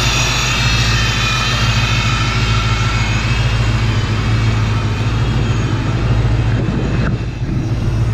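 Supercharged Ford Mustang GT V8 idling steadily with a deep, even drone, dipping briefly near the end.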